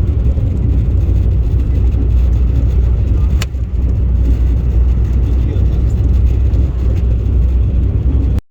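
Car driving on a road: a steady low rumble of engine and road noise, with a single sharp click about three and a half seconds in. The sound cuts off suddenly near the end.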